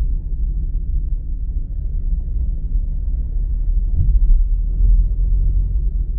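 Steady low rumble of a vehicle on the move, heard from inside, with a brief swell about four seconds in.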